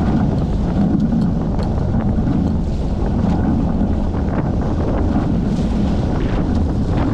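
Wind buffeting the microphone aboard a Hobie 14 catamaran under sail, with water rushing and slapping along the hulls. A steady, loud, low rumble.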